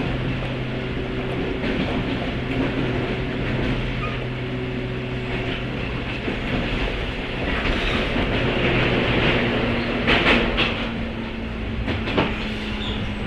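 Running sound from inside a JR 103-series electric train motor car with MT55 traction motors: a steady motor hum over wheel and rail noise. There are a couple of sharp wheel clicks over rail joints, about ten and twelve seconds in.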